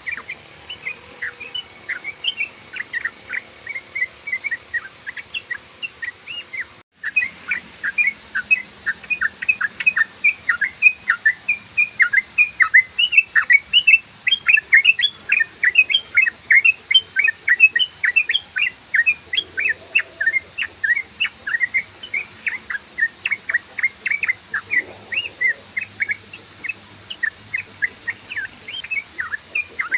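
Yellow-vented bulbul (trucukan) singing a continuous rapid-fire "ropel" song: a fast run of short, sharp chirping notes, several a second, with a momentary break about seven seconds in.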